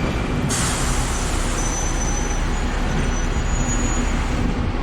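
Hong Kong double-decker tram running, with a steady rumble of wheels on the rails; a loud hiss comes in about half a second in and holds, with faint thin high whines over it.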